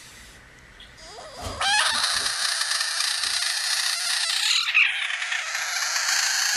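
An animal screaming: a harsh, noisy screech that starts about a second and a half in after a short rising note, and holds on long and loud.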